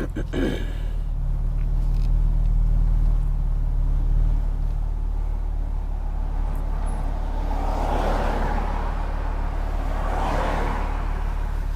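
BMW M4 Competition G82's twin-turbo straight-six running at low, steady revs while the car cruises. Two swells of rushing noise rise and fade, about eight seconds in and again near the end.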